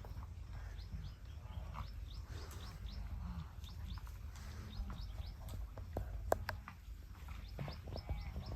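Night-time chorus of wild animal calls heard from inside a safari tent: many short, repeated high chirping calls over a low steady rumble, with a few sharp clicks around the middle.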